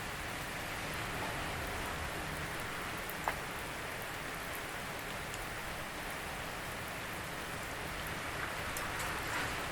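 Steady rain falling, an even hiss with scattered drops ticking on a surface and one sharper drip about three seconds in.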